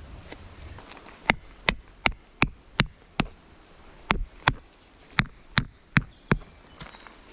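Repeated sharp blows of a hand tool: about a dozen strikes in three runs, roughly three a second, with short pauses between the runs.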